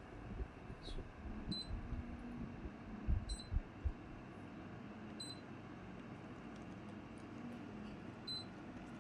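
Daikin mini split air conditioner giving four short high beeps at uneven intervals, over a steady airflow hiss. A few low thumps come near the middle.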